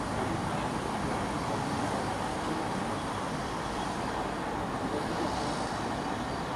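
Steady vehicle rumble with an even hiss, no distinct knocks or tones.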